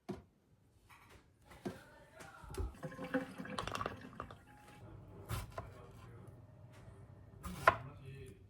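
Kitchen sink sounds: water running and dripping, with scattered clicks and knocks of things being handled. A single sharp knock near the end is the loudest sound.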